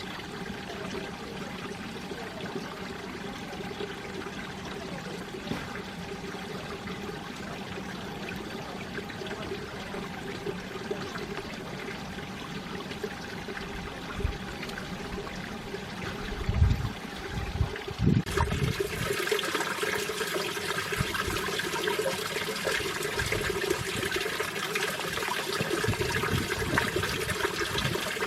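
Mountain stream water running and splashing over rocks in a steady rush. About two-thirds of the way in, a few low thumps come, and then the rush suddenly turns louder and brighter.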